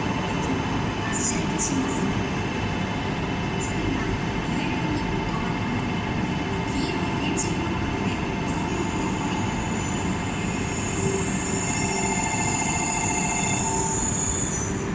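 Electric train moving along the platform, with steady running and wheel noise and several held tones, joined by a high thin wheel squeal from about halfway through.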